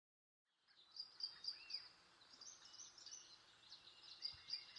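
Faint birdsong fading in from silence: a quick run of about four short chirps about a second in, then scattered chirps and calls.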